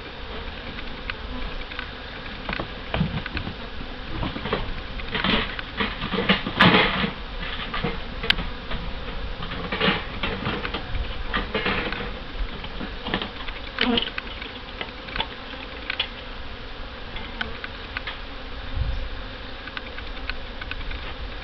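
Honey bees buzzing steadily around an open hive, with scattered clicks and knocks throughout, the loudest cluster about six to seven seconds in.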